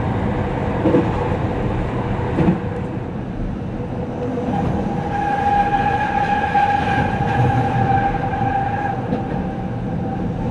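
Keihan 800 series train running, heard from inside the cab: a steady rumble with a few sharp clicks in the first seconds. About halfway in, a steady high squeal joins as the wheels round a curve, and it fades near the end.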